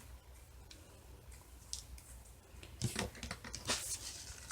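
Scissors snipping the uneven ends of a bunch of ribbons: scattered sharp clicks, coming closer together and louder in the last second and a half.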